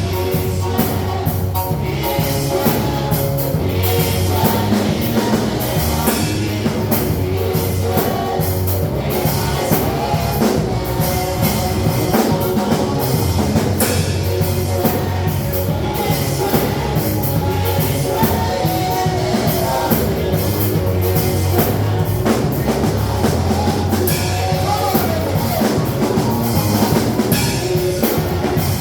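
Worship band music with drum kit, bass and guitar playing a steady beat.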